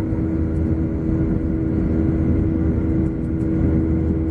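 Steady cabin noise of a Boeing 737-800 airliner under way: an even roar of engines and airflow, with a steady hum running through it.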